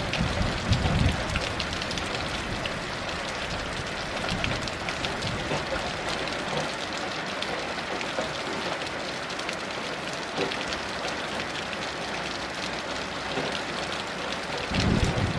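Steady heavy rain hissing and pattering. A low rumble of thunder dies away in the first second or so, and another starts rolling in shortly before the end.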